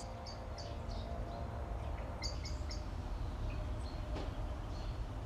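Small birds chirping in short high notes, in little groups near the start, about two seconds in and again about four seconds in, over a steady low rumble.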